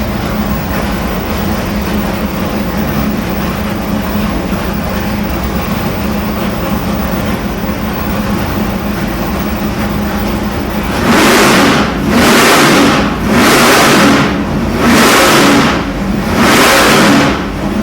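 632 cubic inch big-block Chevy V8 with a solid-roller cam running steadily on an engine dyno, then revved in five quick blips of about a second each, roughly every second and a half, from about eleven seconds in.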